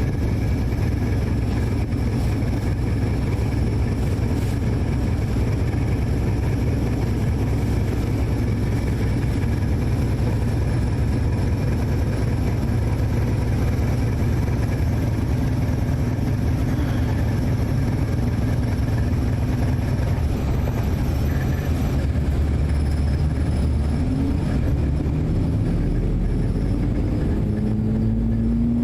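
Motor vehicle running steadily on the move, a continuous low engine and road rumble; in the last few seconds the engine note rises as it speeds up.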